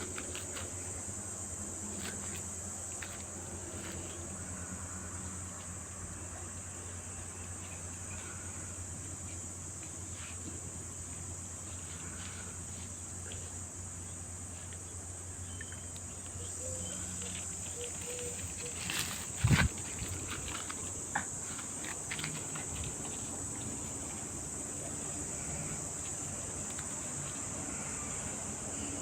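Steady high insect chirring, like crickets, over a low hum, with a few sharp knocks about two-thirds of the way in.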